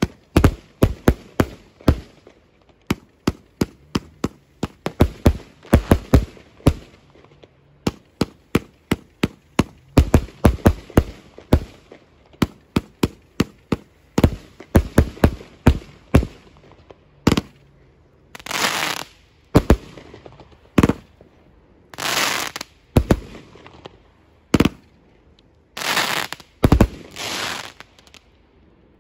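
Multi-shot firework cake firing: a rapid volley of sharp launch bangs for the first half, then slower, longer rushing bursts about half a second each, several seconds apart.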